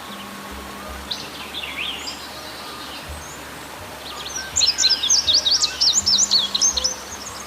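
Several birds calling over a steady background hiss: a few falling whistles about a second in, then a loud, dense run of rapid high chirps from about four and a half to seven seconds.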